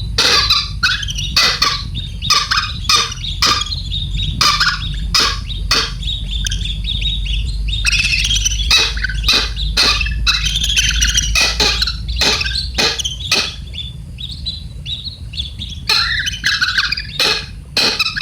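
A baby bird chirping rapidly and continuously in high, shrill calls, in the manner of a nestling begging for food, with frequent sharp clicks mixed in.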